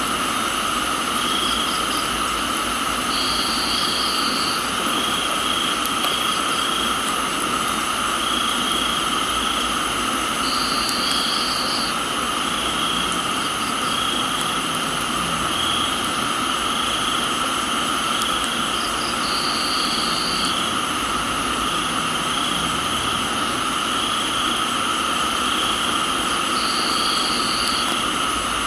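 Steady hiss of rain with crickets and other insects calling: a constant insect drone, a pulsing chirp repeating several times a second, and a higher trill lasting about a second and a half that comes back roughly every eight seconds.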